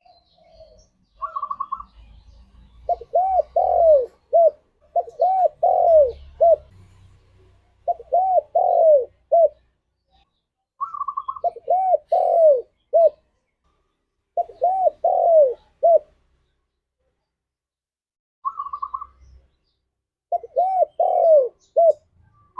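Spotted dove (tekukur) cooing: repeated phrases of three or four arched coos with pauses between them, some phrases opening with a short higher note.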